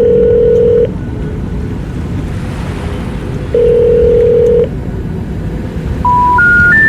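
Telephone signalling tones: two long, steady beeps of about a second each, a few seconds apart, then near the end three short beeps climbing in pitch, like the three-tone call-failure signal. They sound over a steady rushing noise.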